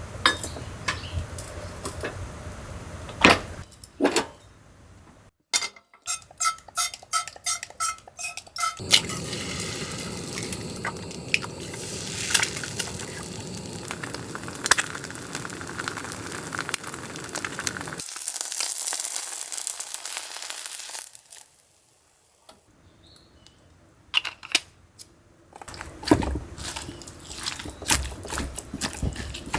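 Camp cooking sounds: metal utensils clinking and scraping against pans and dishes in sharp, scattered clicks, with a quick run of regular clicks early on. Through the middle there is a long stretch of steady sizzling, then a quieter pause before the clinks return near the end.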